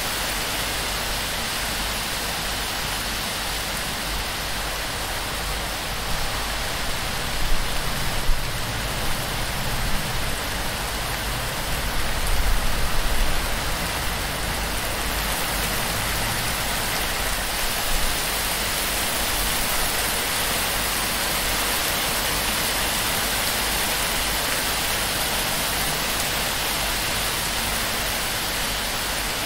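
Heavy torrential rain drumming on and pouring off a palm-thatch roof: a dense, steady hiss of falling water. A few low thumps come about a third of the way in, and a brief low rumble follows just before the middle.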